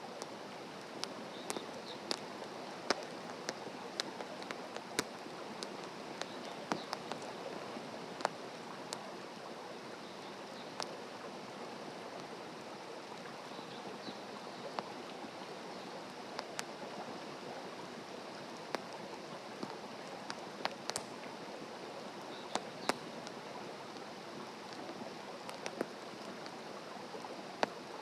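Wood campfire burning in a fire stand: a steady hiss with irregular sharp crackles and pops every second or two.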